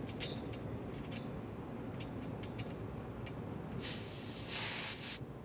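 A sharp burst of hiss lasting about a second and a half near the end, over a steady low background rumble, with a few light clicks and taps of handling before it.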